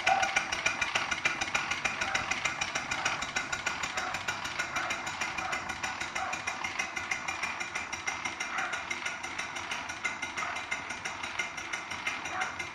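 Live steam traction engine running, its exhaust giving rapid, even chuffs several times a second, slowly growing fainter.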